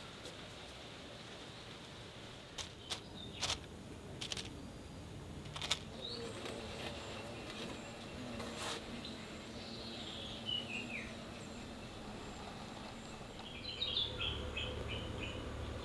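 Quiet outdoor ambience with small birds chirping, including a short falling series of notes partway through and a quick run of notes near the end. A few sharp taps sound in the first half, and a low hum sets in near the end.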